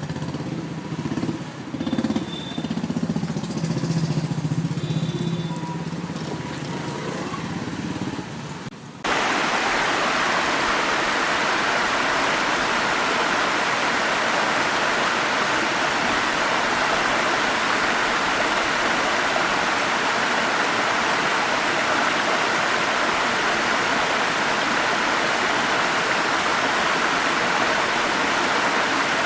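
Road vehicle engine and traffic noise for about nine seconds. Then a sudden cut to a waterfall's steady rush of water.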